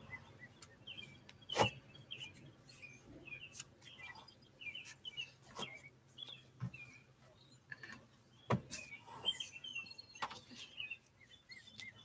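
Small birds chirping faintly and repeatedly outside the open car, with a few sharp clicks from the seatbelt and dog harness being handled.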